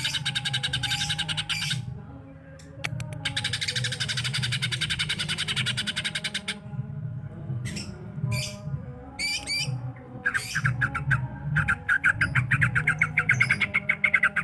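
A songbird singing long runs of rapid, buzzy trilled notes broken by short pauses and chattering phrases, over a steady low hum. It is a cucak ijo pancingan (lure) song recording, played to prompt a cucak ijo to sing.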